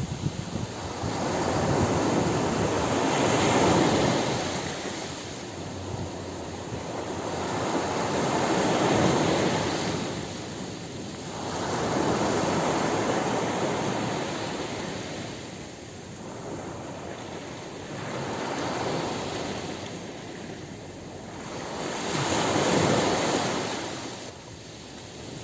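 Ocean surf breaking on a beach: five swells of rushing water, each rising and falling away every five seconds or so.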